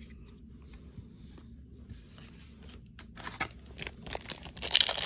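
Trading cards and their foil pack wrapper being handled: faint clicks, then rustling and crinkling that builds from about three seconds in and is loudest near the end.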